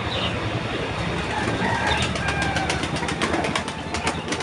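Clatter of rapid taps and rustling as pigeons are fed, thickening into a dense run of sharp clicks about two seconds in, with a few bird chirps.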